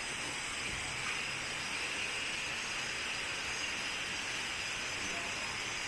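Steady rush of waterfall water, an even hiss with no breaks.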